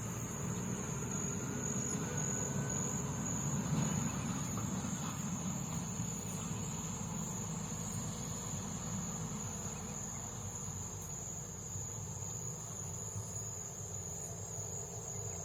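A Scania truck's diesel engine running with a low rumble that swells about four seconds in and then eases off, under a steady high-pitched drone of crickets.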